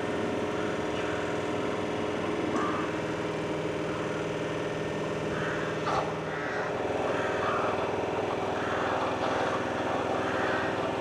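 Electric multiple unit humming steadily at the platform, a drone of several level tones, with a sharp click about six seconds in, after which the hum shifts slightly.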